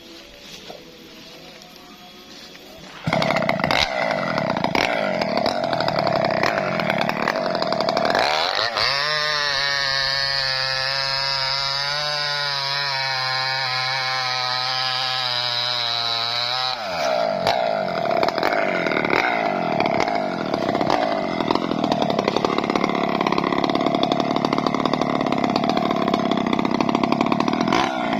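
Small two-stroke chainsaw engine cutting into a coconut palm trunk. It comes in suddenly about three seconds in, revs up at around eight seconds to a steady high pitch for about eight seconds, then drops back to a rougher, noisier running.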